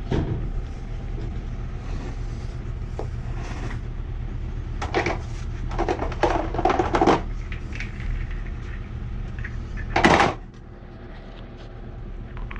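Knocks and scrapes of threaded gas pipe fittings being handled, over a steady low hum. A loud sharp clank comes about ten seconds in, and the hum drops right after it.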